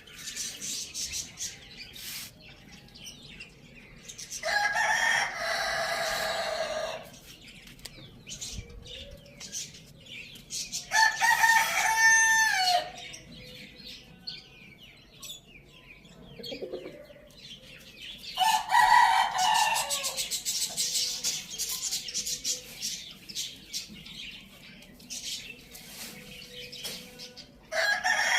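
Roosters crowing: four loud crows of about two seconds each, several seconds apart, the last cut off at the end. Between the crows, small birds chirp in quick, short notes.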